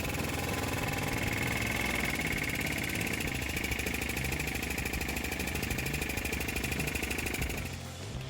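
Daihatsu Move L185 engine running, with a steady high squealing chirp from the front of the engine, the 'kyuru-kyuru' noise that sounds like belt squeal but whose cause is not yet known. The squeal stops shortly before the end.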